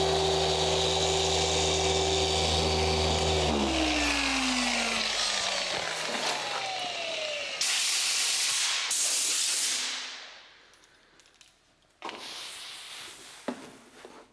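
Dual-action paint polisher running steadily, then switched off about a third of the way in, its motor pitch sliding down as it spins to a stop. Two short hissing bursts follow near the middle, then a few faint clicks.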